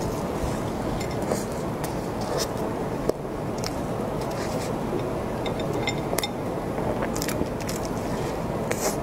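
Close-miked biting and chewing of a crisp-crusted cream puff pastry, with scattered crackles as the flaky crust breaks up.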